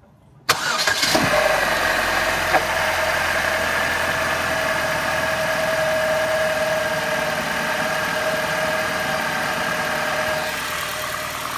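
GM Ecotec inline-four cold start: the engine cranks and catches suddenly about half a second in, then runs at a steady idle with no timing chain rattle, its chain, guides and tensioner newly replaced.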